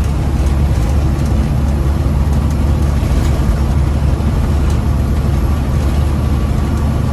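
Diesel engine of a big-rig truck running steadily at cruise, with road noise, heard inside the cab. The low engine drone is the loudest part.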